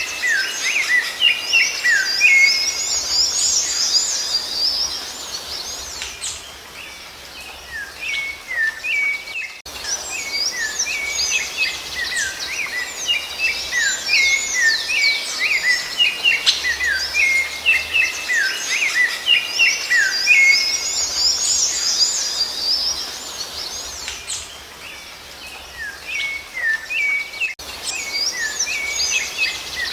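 Rufous-bellied thrush (sabiá-laranjeira) singing in short whistled phrases, mixed with fast, higher chirping from other small birds. The song thins out briefly twice.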